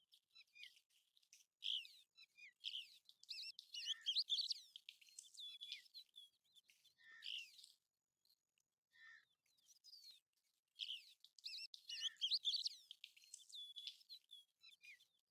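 American golden plover calls: quick clusters of short, high whistled chirps with brief gaps between them.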